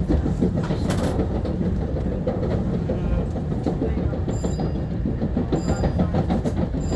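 Long Island Rail Road M3 electric multiple-unit train running along the track, heard from inside the front car: a steady low rumble with wheel clatter over the rails. Two brief faint high tones sound in the second half.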